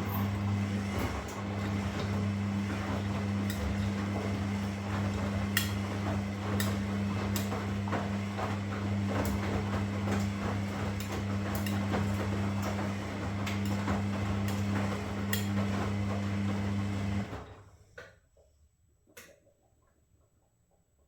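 Washing machine running: a steady motor hum with scattered clicks and knocks from the turning drum. It stops abruptly about seventeen seconds in, leaving a couple of faint clicks.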